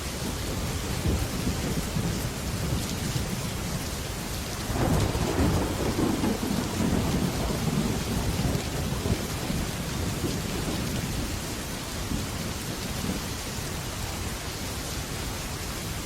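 Heavy rain drumming steadily on a metal roof. About five seconds in, a roll of thunder rumbles in, lasts several seconds and fades back under the rain.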